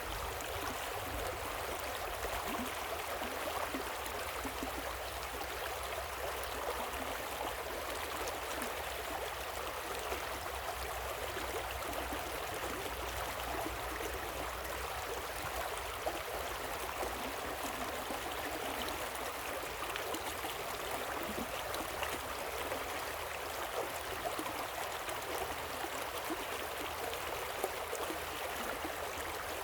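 River water rushing and splashing over a small waterfall in a steady, unbroken wash of sound, with a low rumble underneath.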